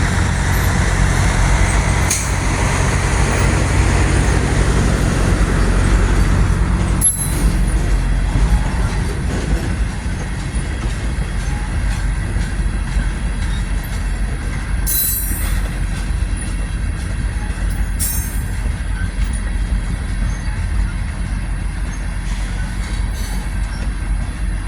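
Tank cars of a long freight train rolling slowly through a curve: a steady rumble of steel wheels on rail, broken by a sharp click about seven seconds in and two brief high screeches partway through.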